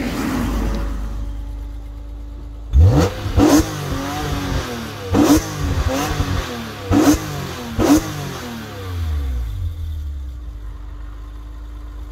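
2002 BMW E46 M3's 3.2-litre S54 straight-six, fitted with an Eventuri intake and the stock exhaust, swells past, then is free-revved five times while standing, each blip shooting up and falling back sharply, before settling to a steady idle.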